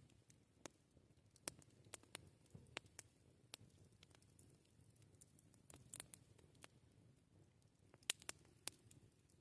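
Campfire crackling softly: sparse, irregular sharp pops and snaps of burning wood over a faint low rumble, with one louder pop about eight seconds in.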